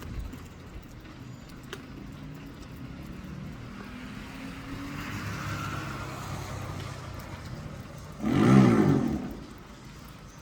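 Motor vehicles passing on a road, a low engine rumble with a swell of road noise midway. About eight seconds in, one vehicle passes close and its engine is loud for about a second, its pitch bending as it goes by.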